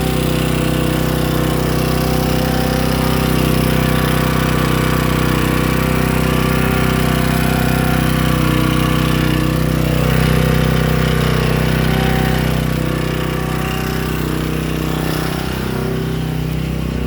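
Predator portable generator's engine running steadily. Its tone shifts slightly and gets a little quieter after about thirteen seconds.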